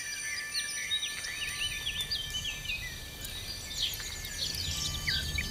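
Small birds chirping in woodland: many short, quick notes that rise and fall, scattered all through, over soft held music tones.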